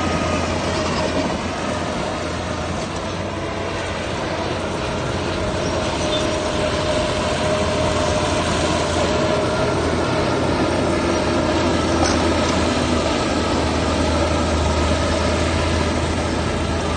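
Heavy earthmoving machinery running steadily: a deep diesel engine drone with a steady whine above it.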